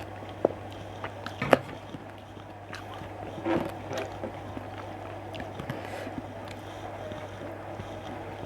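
Close-up eating sounds: a person chewing and biting food, with a few sharp clicks near the start, the loudest about one and a half seconds in, and a short patch of crunching and smacking about three and a half seconds in. A steady low hum runs underneath.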